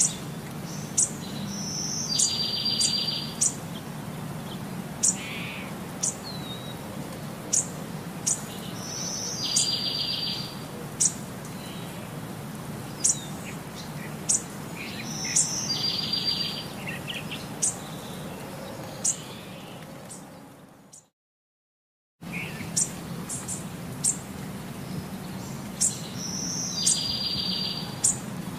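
Birds chirping in a repeating pattern: short, sharp high chirps about once a second and a buzzy trill every six or seven seconds, over a steady low hum. The sound cuts out completely for about a second roughly three-quarters of the way through, then resumes.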